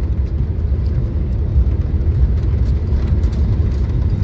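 Steady low rumble inside the cabin of an Airbus A320neo airliner: engine and airflow or rolling noise, even in level throughout.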